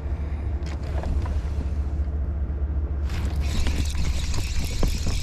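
A motor-driven fishing kayak running under way: a steady low hum. About three seconds in, a hiss of rushing water and wind comes up over it.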